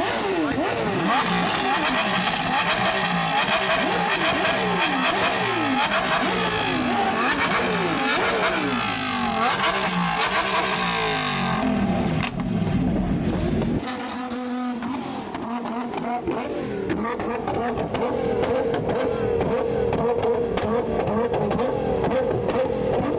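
A sports car engine revved hard again and again, its pitch dropping after each blip, about one rev a second for the first twelve seconds. The revs then climb and fall away, and a steadier engine note holds through the second half.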